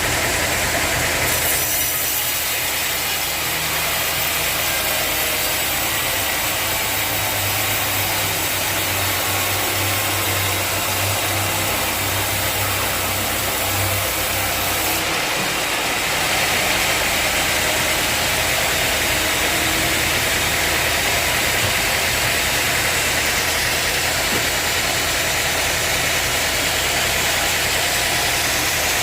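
Sawmill machinery running steadily, a loud even mechanical noise with a low hum that changes pitch about halfway through.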